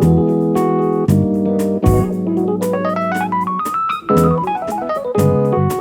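A live band plays an instrumental solo: keyboard over bass and drums, with a fast run of notes climbing and then coming back down in the middle.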